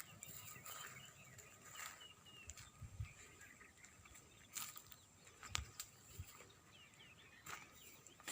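Faint outdoor ambience of small birds chirping in short calls, with a few soft knocks and rustles, the sharpest about five and a half seconds in.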